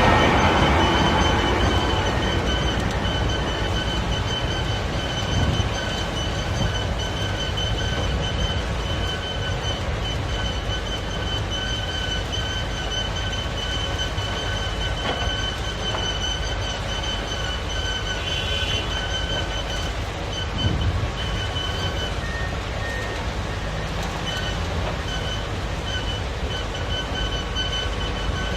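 Heavy machinery running in a quarry: the Komatsu WA470 wheel loader's diesel engine and drivetrain give a steady low rumble, with a steady high-pitched squeal on top and a few short knocks.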